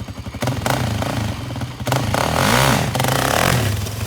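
400cc sport ATV engine revved twice as the rider pops the clutch, the second time louder and longer with its pitch rising and falling, then dropping back to a pulsing idle near the end.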